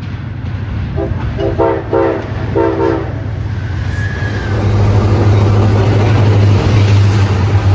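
A train horn sounds four short toots, followed by a steady low motor hum that grows louder.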